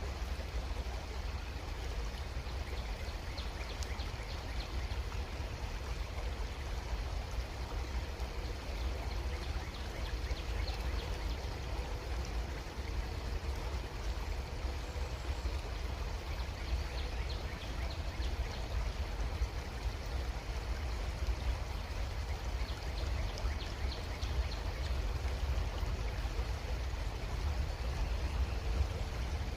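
Creek water running steadily over its bed, an even rush with small splashes and a deep low rumble underneath.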